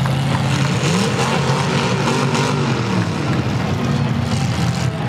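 Demolition derby cars' engines revving and running hard on the dirt arena, the pitch rising and falling again and again as the cars manoeuvre.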